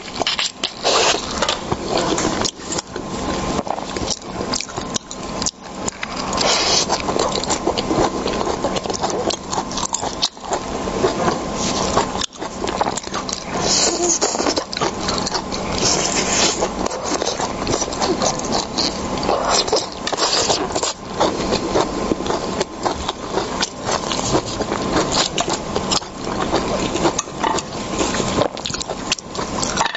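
Close-miked eating sounds of a person chewing seafood: a dense, unbroken run of clicks and crackles from the mouth.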